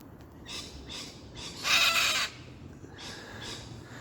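Harsh, raspy screeching calls of an agitated bird. There is one loud screech about halfway through and fainter calls before and after it. The bird is squawking at a climber intruding in its tree near its nest.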